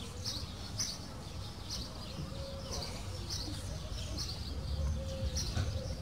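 A small bird chirping, short high chirps repeated about twice a second, over a low background rumble.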